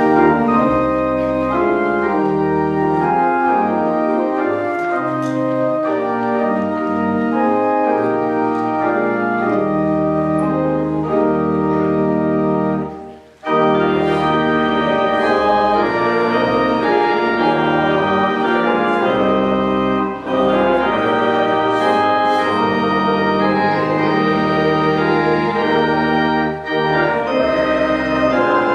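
Church organ playing a hymn in sustained full chords, with a brief break about halfway through.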